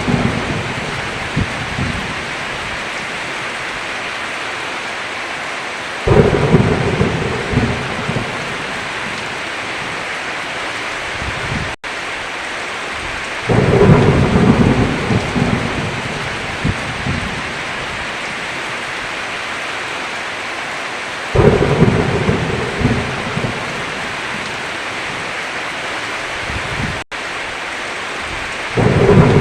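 Heavy, steady rain with rolling thunder rumbles that come in suddenly about every seven and a half seconds and fade over a few seconds, four times. The sound cuts out for an instant twice.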